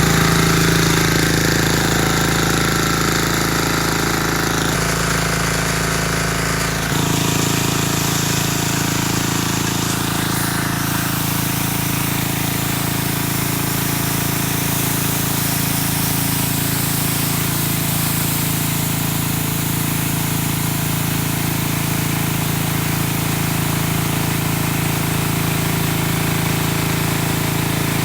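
Diesel engine of a car washing machine running steadily with a rapid knocking beat, its tone changing abruptly about seven seconds in.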